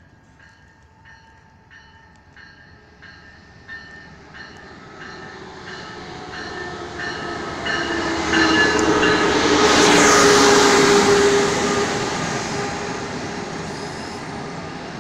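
Amtrak Cascades Talgo train, led by a Charger diesel locomotive, approaching and running past, loudest about ten seconds in, with the rush of the passing cars after it. A bell rings about twice a second, growing louder as the train nears, until the passing noise covers it.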